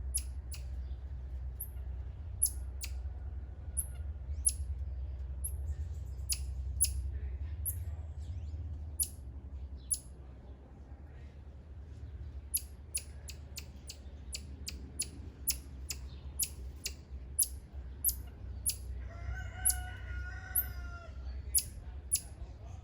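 A rooster crowing once, a little before the end, over frequent short, very high chirps and a steady low rumble.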